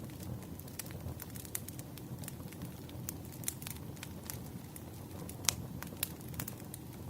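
Wood fire burning: a steady low rumble with frequent sharp crackles and pops of the logs, one louder pop about five and a half seconds in.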